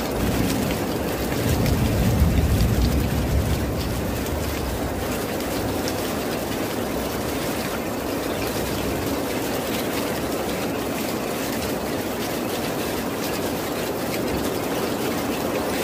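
Steady heavy rain, with a low rumble of distant thunder that swells in the first seconds and fades away.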